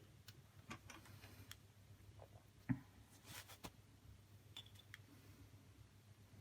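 Near silence with a low steady hum and a few faint, scattered clicks and taps, the sharpest about two and a half seconds in, followed by a brief soft rustle.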